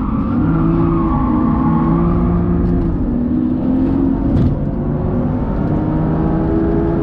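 BMW's engine heard from inside the cabin under full throttle, revs climbing hard. The pitch drops at one upshift about midway, then climbs again.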